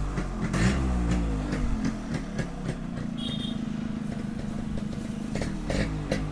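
Yamaha RX100's two-stroke single-cylinder engine, breathing through its stock silencer, revving up and down and then settling to a steady idle about two seconds in. A few light clicks come near the end.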